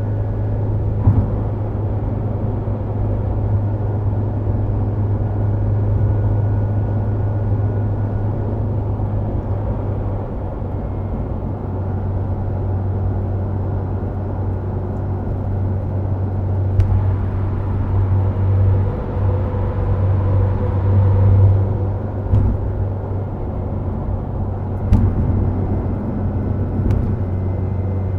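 Subaru WRX STI Spec C's turbocharged flat-four running at a steady cruise through an A-RM aftermarket muffler, a constant low drone with tyre and road noise, heard from inside the car. A few brief sharp knocks break in, one near the start and the others in the second half.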